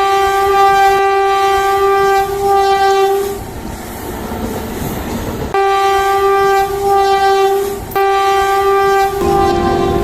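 Train horn sounding in long, loud blasts with short breaks between them, over the rumble and clatter of a passing train. Near the end the horn comes back lower in pitch and fainter.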